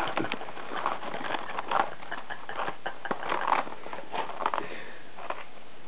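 Mouth chewing a mouthful of dry Froot Loops cereal: irregular crunches and crackles, a few sharper than the rest.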